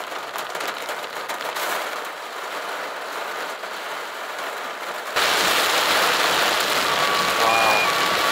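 Heavy rain and wind noise, with scattered clicks of drops hitting close by. About five seconds in it cuts suddenly to louder, fuller rain noise, and near the end a few short beeping tones sound over it.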